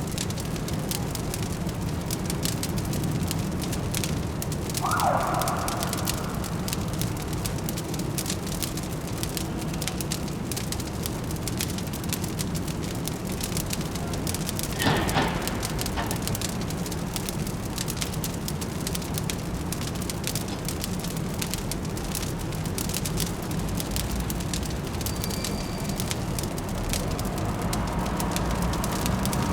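Fireplace crackling with a constant patter of small pops over a steady low city rumble. A brief tonal sound comes about five seconds in, and one louder pop halfway through.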